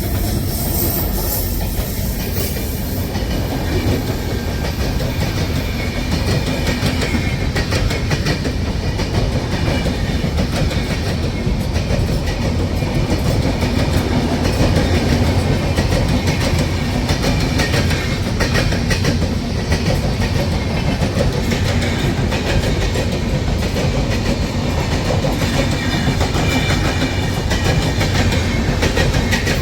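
A train running along the track: a loud, steady rumble with the wheels clattering over the rails.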